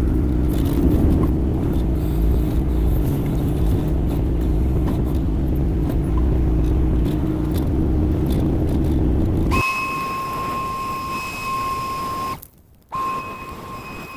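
Kymron XH20D mini excavator's Yanmar diesel engine running with a steady low rumble; it cuts off about ten seconds in. A steady high electronic buzzer tone follows, broken by a short gap near the end.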